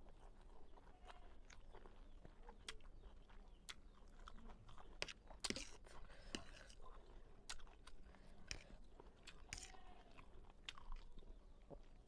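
Close-miked mouth sounds of chewing a mouthful of fried noodles: irregular wet clicks and smacks of the lips and tongue, with some crunching.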